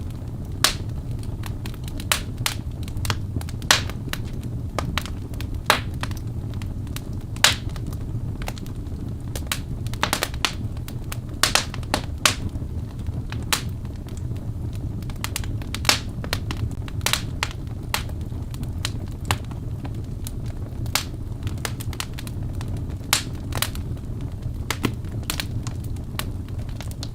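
Birch logs burning in a fireplace: a steady low rumble of the flames with sharp, irregular pops and crackles several times a second.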